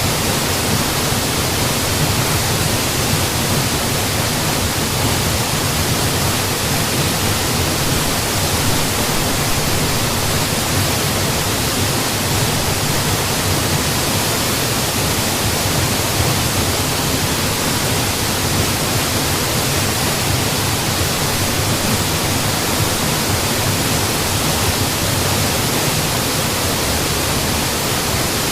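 Mountain waterfall: a steady, unchanging rush of falling water, full from low to high pitch, with no distinct splashes or breaks.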